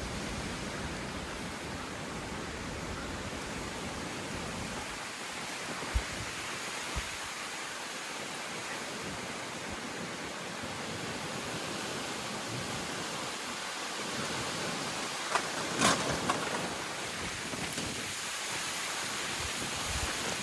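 Storm wind rushing steadily, buffeting the microphone with a low rumble for the first few seconds. A couple of dull knocks come about six seconds in, and a short cluster of sharp cracks, the loudest sounds, comes about three-quarters of the way through.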